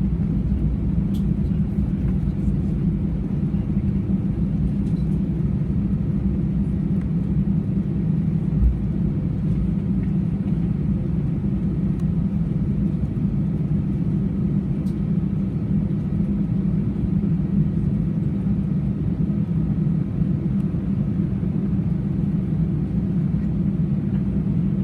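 Airbus A320 cabin noise: a steady low rumble of the engines and airflow, with one soft low thump about nine seconds in.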